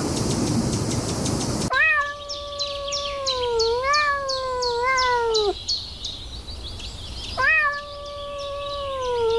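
A cat meowing: two long, drawn-out meows, the first wavering for nearly four seconds and the second lasting about two. A steady hiss fills the first second and a half before the meows begin, and a fast, high ticking runs behind the first meow.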